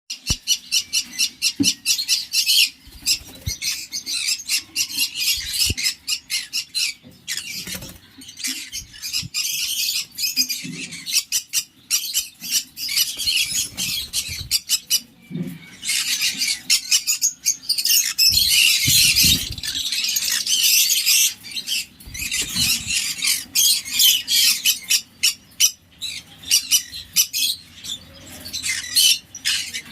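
Yellow-sided conures, a colour form of the green-cheeked conure, squawking and chattering in a rapid, near-continuous stream of sharp, high-pitched calls.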